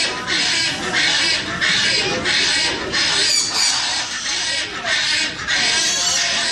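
A parrot squawking over and over, with harsh calls coming about two a second.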